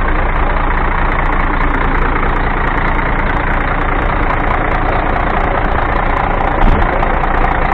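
1994 Volvo FH12 380's 12.8-litre six-cylinder diesel engine idling steadily, with one brief louder thump near the end.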